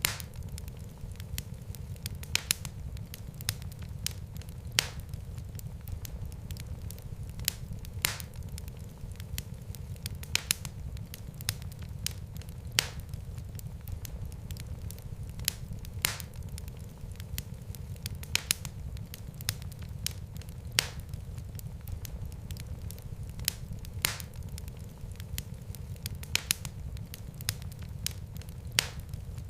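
Fireplace fire crackling: irregular sharp pops and snaps, several every few seconds, over a steady low rumble of the flames.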